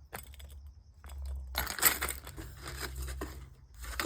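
Packaging crinkling and crackling as a bird toy is handled and unwrapped by hand, in two spells: a longer one about a second and a half in and a shorter one near the end.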